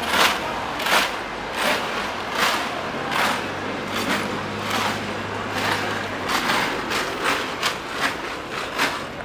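Busy city street: traffic noise with a vehicle engine running low and steady for a few seconds in the middle, over a regular scraping or rustling noise about once every three-quarters of a second.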